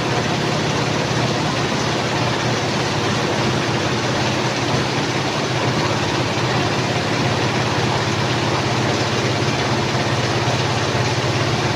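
Twin-tub washing machine running: a steady motor hum under an even wash of noise, unchanging throughout.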